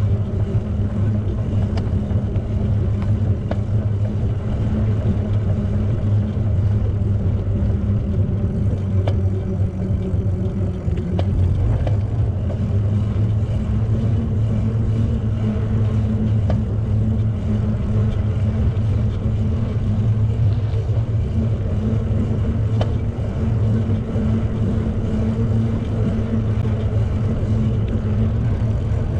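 Steady low drone of a moving vehicle, with an even hum and rumble that holds without change throughout.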